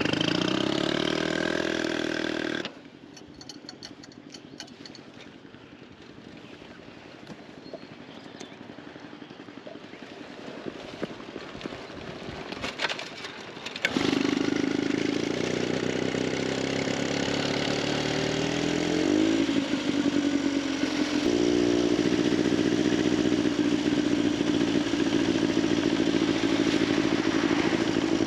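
Veteran Scott two-stroke twin motorcycle engine running, rising in pitch at first. About three seconds in it drops away to a quieter stretch with scattered clicks and clatter. About halfway through the engine comes back loud and runs steadily, with a brief rise and fall in pitch partway on.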